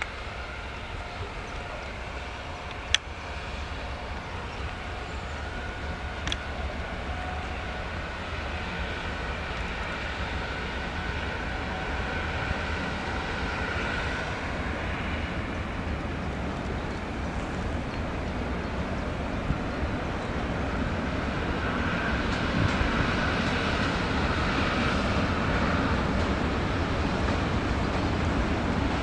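Container freight train hauled by an electric locomotive rolling past, a continuous rumble of wagons on the rails that grows steadily louder, with a faint high whine over it. One sharp click about three seconds in.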